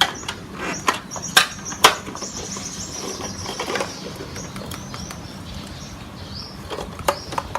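Battery-powered bump-and-go toy ambulance running, its small motor humming steadily, with sharp clicks and knocks as it moves and bumps. Above it, a thin high electronic sound wavers on and off.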